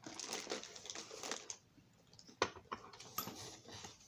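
Handling of a model railroad car: a brief rustle, then a few light, sharp plastic clicks and taps.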